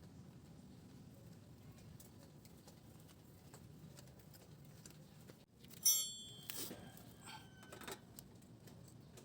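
A sharp metallic clink that rings briefly, about six seconds in, followed by a few softer clatters: metal tools or parts being handled and set down.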